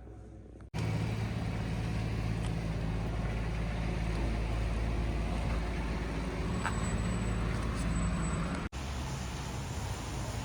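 Steady low rumble of an engine running, with a low hum, broken by a short cut near the end.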